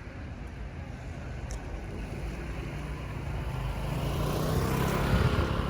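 Car driving, heard from inside the cabin: steady engine and road rumble that grows louder over the second half.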